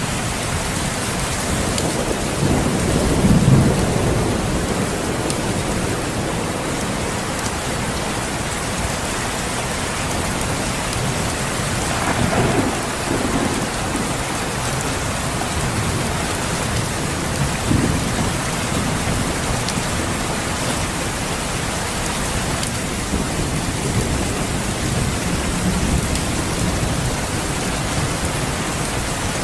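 Steady rain with low rolls of thunder: the loudest rumble comes a few seconds in, and fainter rumbles follow around the middle.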